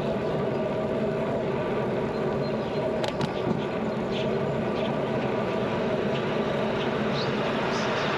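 Steady wind and road noise of a bicycle ride: air rushing past the camera and tyres rolling on pavement, with a couple of short clicks about three seconds in.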